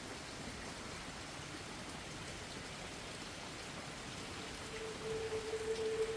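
Steady rain falling, an even hiss of drops. About five seconds in, a single held note of background music fades in over it.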